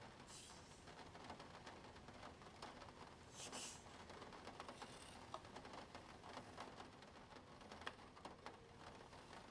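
Faint small clicks of plastic Spirograph pieces and a pen scratching on paper, with a few brief scratchy strokes.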